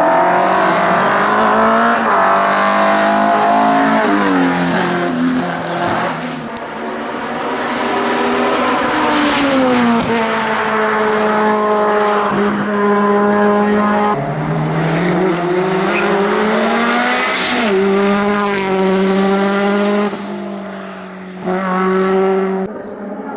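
Race car engine at full throttle, its pitch climbing and then dropping sharply again and again as it shifts through the gears.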